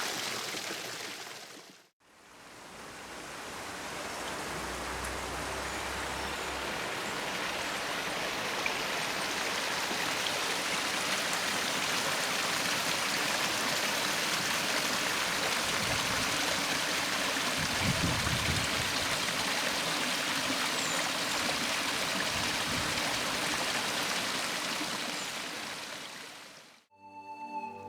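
Steady rush of running water from a garden stream or waterfall. It fades out and back in about two seconds in, and fades out again near the end.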